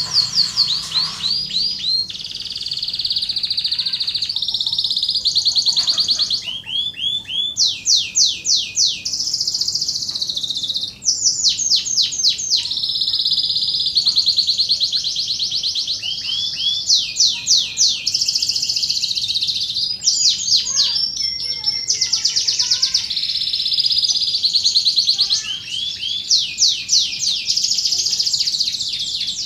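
Canary singing one long, continuous song of fast, high trills. Each run repeats one short note many times before it switches to a new trill every second or two.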